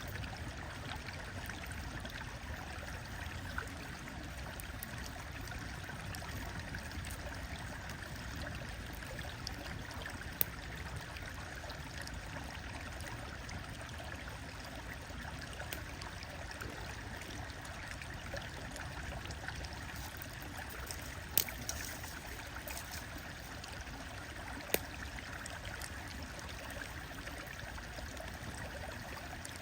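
A stream running steadily, with a few sharp pops from a crackling wood fire, the loudest about ten seconds in and twice more past the twenty-second mark.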